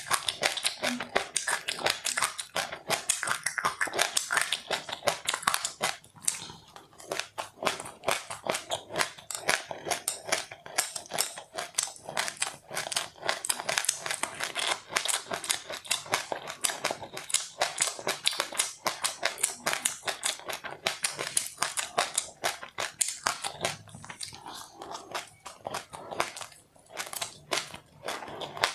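Close-up chewing of crunchy seeds and puffed rice: dense, rapid crackling crunches, easing off briefly a couple of times.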